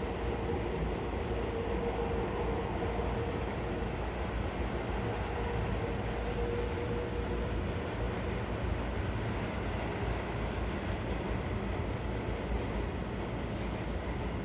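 Seibu 6000 series electric train running on the line, heard from inside the passenger car as a steady rumble of wheels and car. A steady whine sits over it for the first half and fades out about seven seconds in.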